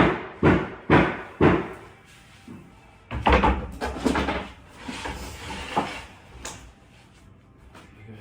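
A run of sharp knocks, about two a second, then after a short pause a longer stretch of scraping and handling noise.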